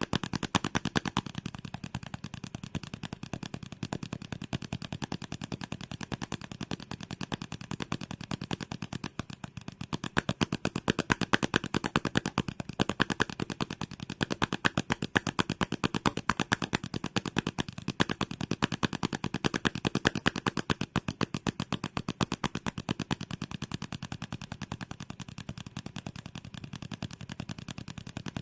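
Rapid ASMR trigger sounds close to the microphone: a fast, continuous stream of sharp clicks and taps, many per second, getting louder and softer in waves.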